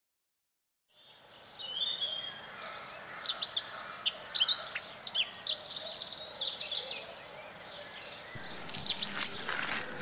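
Wild birds chirping and singing in quick sweeping calls after about a second of silence, busiest in the middle and thinning out later. Near the end comes a short cluster of sharp clicks.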